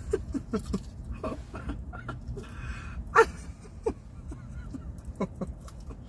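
A woman's short, breathy huffs and gasps with piping-hot fried chicken in her mouth, a string of brief falling sounds, the loudest a little over three seconds in.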